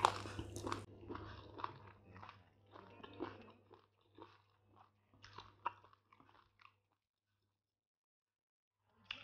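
Chewing and wet mouth smacks of a person eating ogbono soup and semolina by hand: a run of soft, irregular clicks and smacks that stop for about two seconds near the end.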